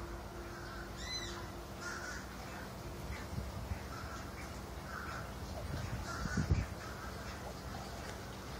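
A bird gives one short, arching caw-like call about a second in, its overtones stacked above it, over faint, short chirps repeating about once a second. A low thump comes about six and a half seconds in.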